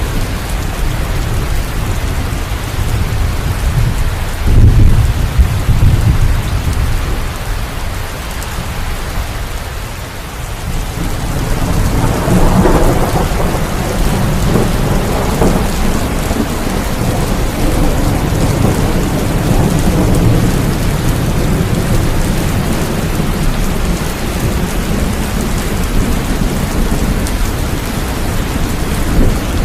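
Steady heavy rain with thunder: a loud low rumble about five seconds in, and a longer rolling peal a few seconds later that fades back into the rain.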